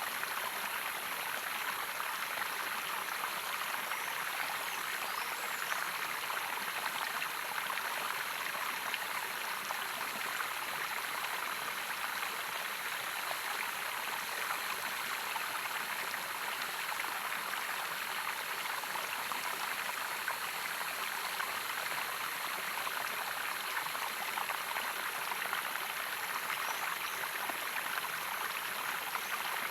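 Running water of a stream or small waterfall, a steady even rush with no change.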